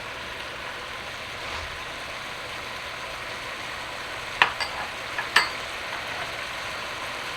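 Diced chicken sizzling steadily in a pot on medium heat, with a couple of sharp taps midway.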